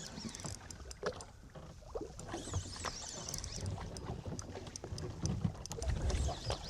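Open-water ambience on a small fishing boat: water slapping against the hull, with a low wind rumble on the microphone and scattered light clicks and knocks.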